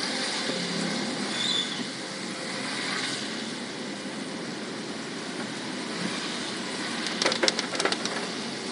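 Steady hiss of a car driving through rain on a wet road, with a short run of sharp clicks a little after seven seconds in.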